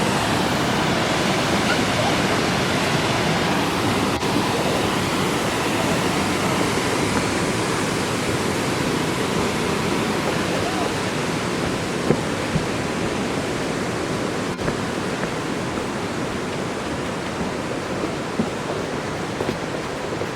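Lanternman's Falls pouring steadily: an even, continuous rush of falling water, with a few faint clicks after the midpoint.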